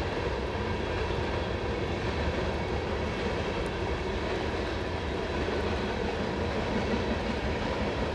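Steady rumble of a freight train's empty tank cars rolling along the rails.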